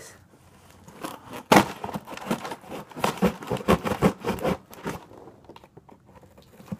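Cardboard shipping box and its packaging being opened and handled: a run of crinkling, tearing and scraping with sharp rustles, stopping about five seconds in.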